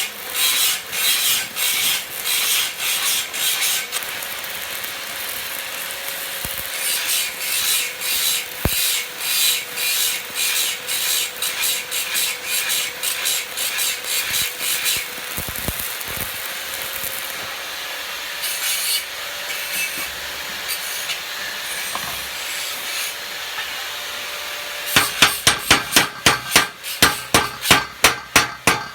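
Hand tool worked on metal in fast, regular scraping strokes, like filing or wire-brushing, pausing now and then. In the last few seconds, quick hammer blows on metal, about four a second.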